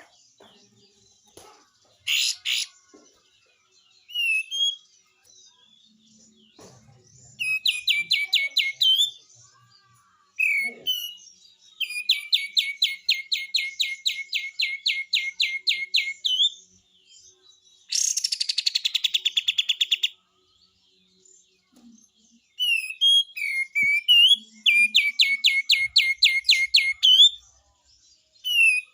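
Kapas tembak songbird giving its 'besetan' call: several long trains of fast repeated notes, broken up by short chirps, with one denser falling series near the middle.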